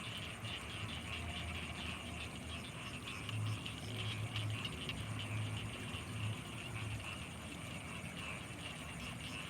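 Night chorus in rice fields: frogs and insects calling in a steady, rapid pulsing trill. A deeper pulsing sound joins in the middle for a few seconds.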